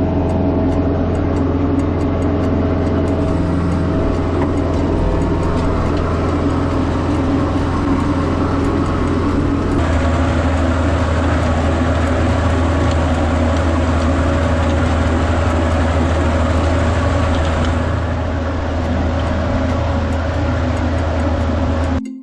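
Kubota farm tractor's diesel engine running steadily under load while tilling a rice paddy, its tone shifting slightly about ten seconds in. The sound cuts off abruptly near the end.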